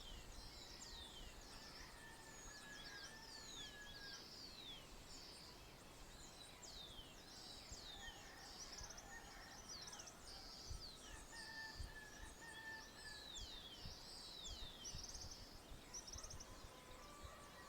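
Faint dawn chorus of many birds: quick descending whistled notes repeated over and over, short buzzy trills, and longer, lower drawn-out calls further off.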